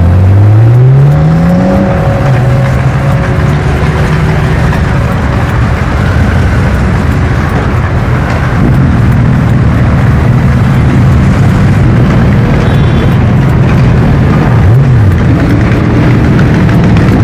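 Superbike engines running hard: one revs up, climbing in pitch over the first two seconds, then holds a steady high-revving note, with a brief dip and rise in pitch near the end.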